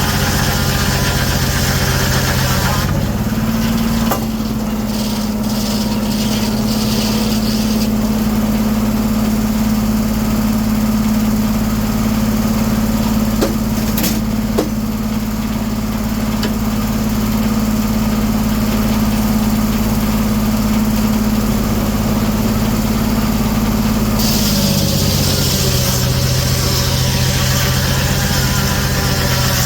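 The engine powering a 1907 American sawmill runs steadily. Its drone steps up to a higher, steady pitch about 3 seconds in, holds for about twenty seconds, then drops back, with a few faint knocks in the middle.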